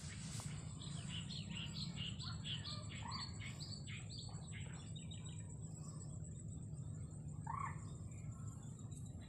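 Small birds chirping, a quick run of short calls for a few seconds and another call near the end, over a steady high-pitched whine.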